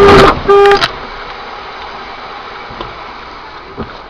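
A car horn sounds in two short blasts over loud traffic noise, then gives way to a quieter steady road hum.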